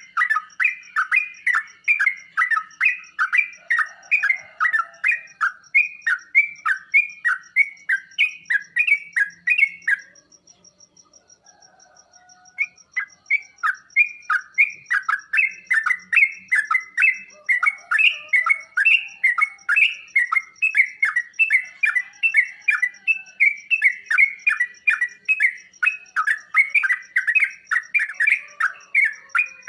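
Yellow-vented bulbul (trucukan) calls: a long run of short, bubbling chirped notes, about three a second. It breaks off for about two seconds about a third of the way in, then resumes. A faint steady, high pulsing tone runs beneath.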